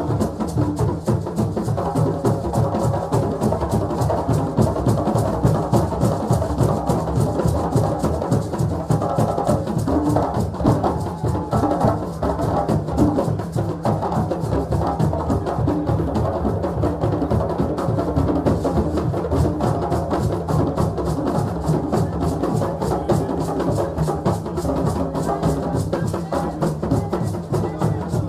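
West African celebration drumming: many drums beaten in a fast, dense, steady rhythm, with most of the weight in the low drum tones.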